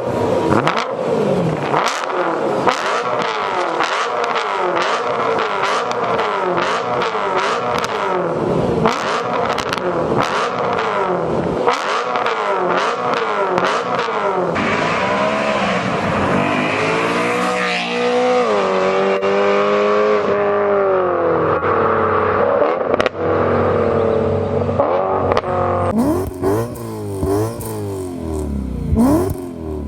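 BMW E9X M3's S65 V8 through an aftermarket exhaust, revved again and again with a rising and falling note and sharp cracks between revs. Longer, held revs come in the middle, and near the end the sound cuts to another car, also revving.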